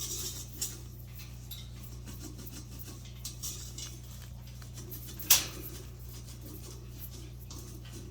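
Scrubber working over a metal bird cage, with light scrapes and clinks of the bars and one sharper clank about five seconds in, over a steady low hum.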